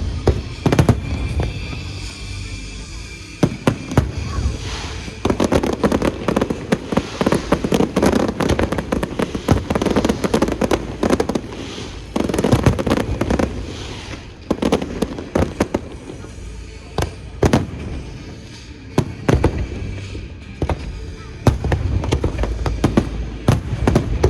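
Aerial fireworks display: shells bursting in a fast, irregular series of sharp bangs. Twice there are stretches of dense crackling, with music playing underneath.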